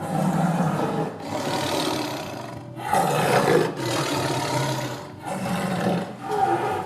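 A big cat roaring: a run of loud, rough, drawn-out roars with short breaks between them.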